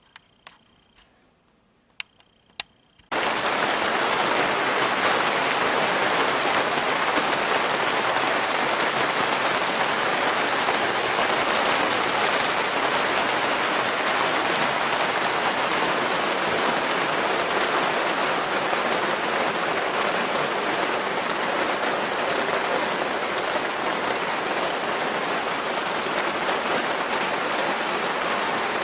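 Rain falling steadily, a loud even patter that starts abruptly about three seconds in after a few faint clicks.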